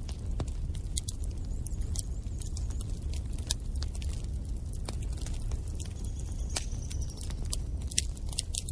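Wood fire in a fireplace crackling: irregular sharp pops and snaps over a steady low rumble of the flames, with a faint high whistle for about a second near six seconds in.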